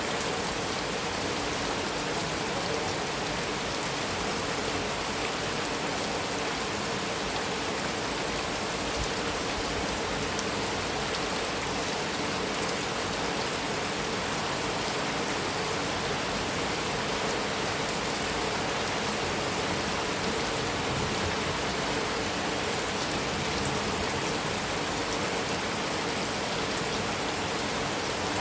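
Heavy rain falling steadily on a metal roof, an even hiss of many drops with no let-up.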